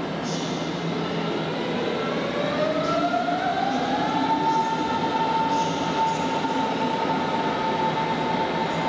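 Berlin S-Bahn electric train with a steady rail rumble. About two seconds in, an electric motor whine rises in pitch, then holds one steady note for the rest of the time.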